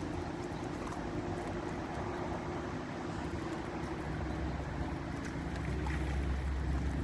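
Steady rain falling, with wind rumbling on the microphone that grows stronger about halfway through.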